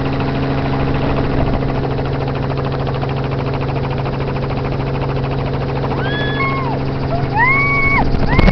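Helicopter in flight heard from the cabin: a steady engine and rotor drone with a fast, even blade pulse. A few short voice-like sounds rise over it near the end.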